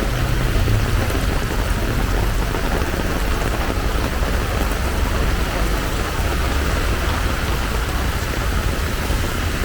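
Heavy tropical downpour: a loud, steady hiss of rain with a constant low rumble underneath.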